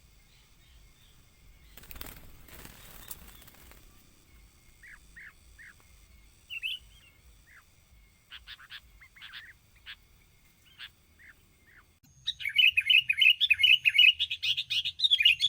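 Sooty-headed bulbul calls: scattered short chirps, then, from about twelve seconds in, a loud rapid chattering song. A brief rustling noise lasting about two seconds comes early, before the chirps.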